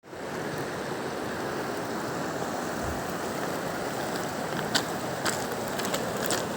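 Fast mountain river, the Katun, rushing steadily over its bed. A few sharp clicks come in over it in the last couple of seconds.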